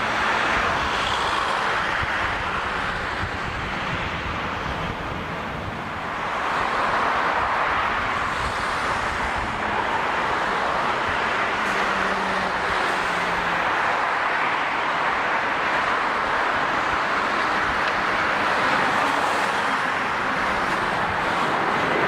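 Jet airliner engine noise: a steady roar that swells about six seconds in and then holds.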